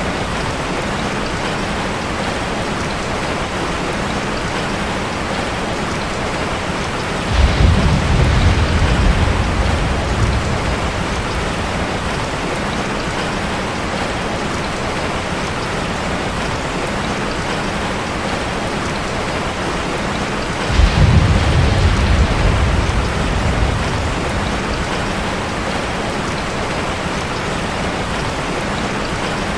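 Steady rain drumming on a metal roof. Two low rolls of thunder break in, about seven seconds in and again about twenty-one seconds in, each starting sharply and fading over a few seconds.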